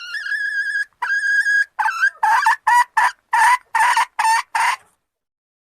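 Junglefowl hen calling to males: a high held note, a second shorter held note, then a quick run of about eight short loud cackling notes that stops abruptly.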